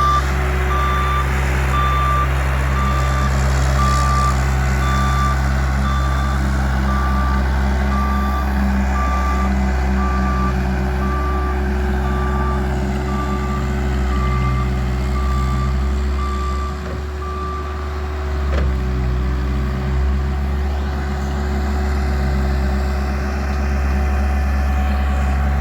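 A Bobcat loader's diesel engine running steadily while its reversing alarm beeps about once a second; the beeping stops about three quarters of the way through and the engine keeps running, dipping briefly just before that.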